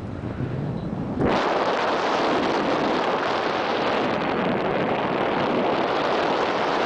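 Wind rushing over the microphone: a low buffeting at first, then about a second in it jumps to a loud, steady rush.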